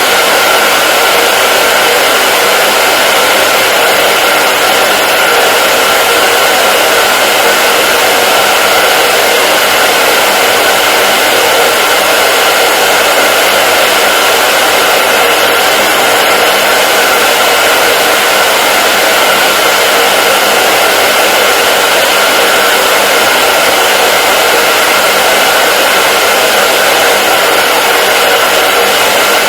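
Hair dryer running continuously: a steady, loud airflow hiss with a faint motor whine, unchanging throughout.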